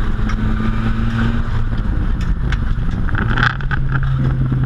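Nissan 200SX (S14) drift car's engine running hard, heard from inside the cabin over constant road and wind rumble, its pitch dropping partway through. Brief higher squeals come over it about three and a half seconds in.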